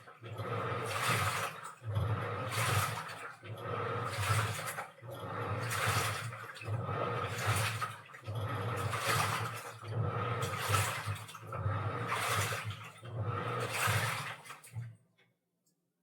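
Washing machine in its wash cycle: the motor turns the drum in surges about every second and a half, each with a low motor hum and water sloshing through the laundry. The agitation cuts out about 15 seconds in.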